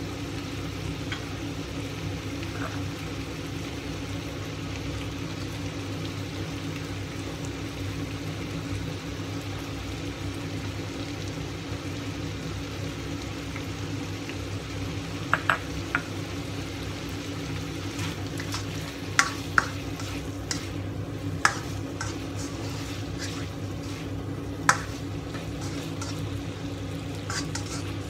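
Eggplant and minced meat sizzling steadily in a wok over a low hum. From about halfway, a few sharp clicks against the wok as spring onion goes in and is stirred through.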